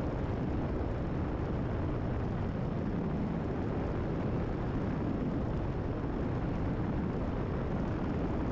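Cessna 172RG's four-cylinder Lycoming engine and propeller droning steadily at climb power, heard inside the cabin.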